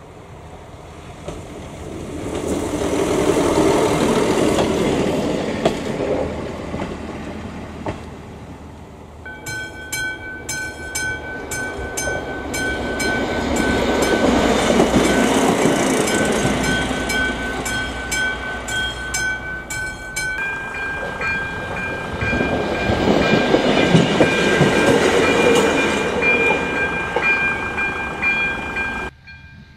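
Trains passing railway level crossings, with cuts between crossings. For the first nine seconds or so a railcar swells past and fades. Then a crossing's electronic warning signal sounds steadily with a rapid ticking as a train goes by. About twenty seconds in, another crossing's warning signal takes over at a slightly different pitch while a further train passes.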